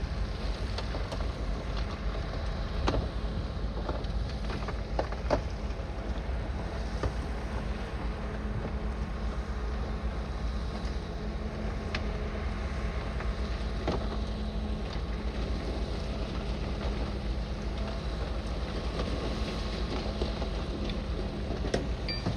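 Bulldozer's diesel engine running steadily, with a few short metallic knocks and clanks scattered through.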